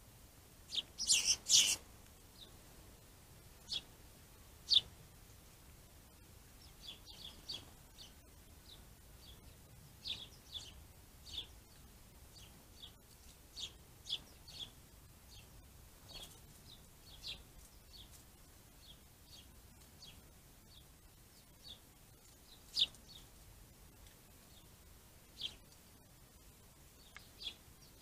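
Small birds chirping: short, high calls scattered throughout, with a louder burst about a second in.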